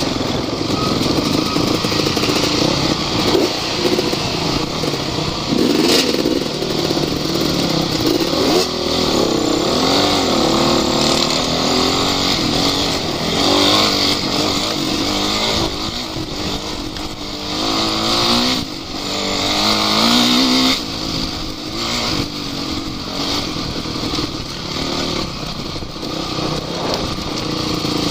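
Off-road vehicle engine running hard, its pitch rising and falling again and again as the throttle is opened and closed. There is a sharp knock about six seconds in.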